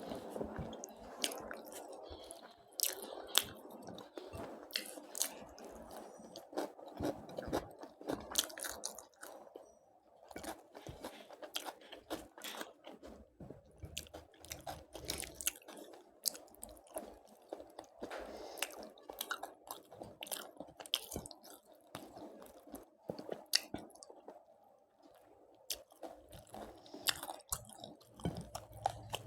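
A person chewing and biting food close to the microphone, with many irregular crisp crunches.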